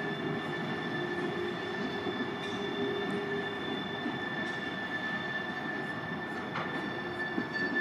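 Canadian National freight train rolling through a junction curve, its wheel flanges squealing in a steady high tone over the rumble of the wheels on the rails. A single short click comes near the end.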